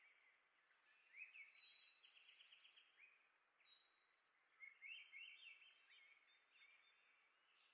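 Faint small songbirds chirping and twittering in quick runs of high notes, with a burst about a second in and another around five seconds, over a soft background hiss.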